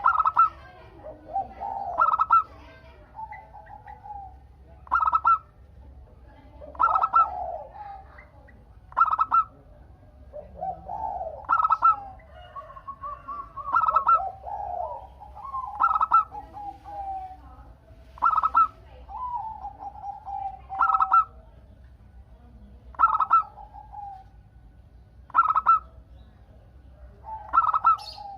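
Zebra doves (perkutut) cooing: loud, short, clipped notes repeated about every two seconds, with softer, lower, rolling coos in between.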